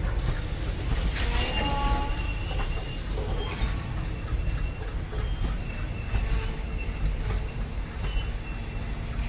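Passenger coaches of an Indian express train rolling past at speed: a steady heavy rumble of wheels on rails with a few faint knocks, and thin high-pitched wheel squeals that come and go.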